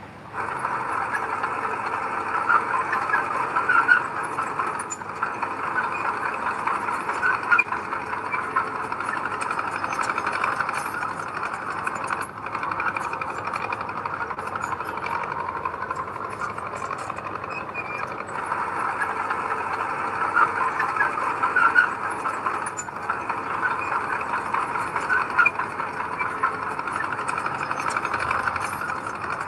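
Heavy earthmoving machinery running steadily at work, its engine noise mixed with a scatter of small clicks and clanks. The sound comes in abruptly just after the start.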